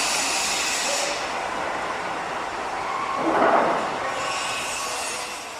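Construction-site din: a dense, steady mechanical noise with hissing, swelling louder about three seconds in and dying away near the end.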